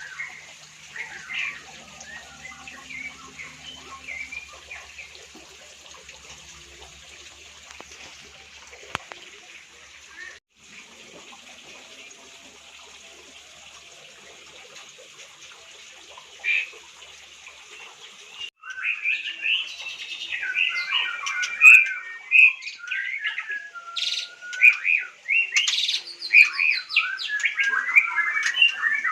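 White-rumped shama (murai batu) calls: faint scattered chirps over a steady hiss, then, after an abrupt break about two-thirds of the way in, loud, fast, varied song with many quick rising and falling notes.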